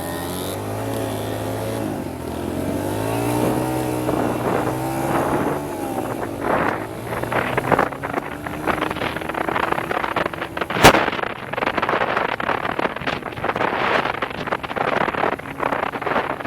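Small dirt bike engine running, its pitch rising and falling with the throttle for the first six seconds or so. After that wind buffets the microphone, with one sharp knock a little past the middle.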